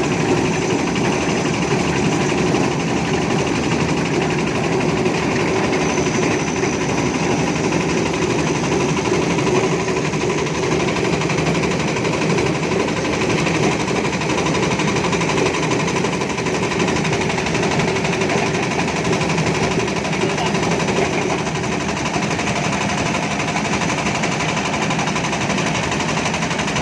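Small engine of a construction machine running steadily.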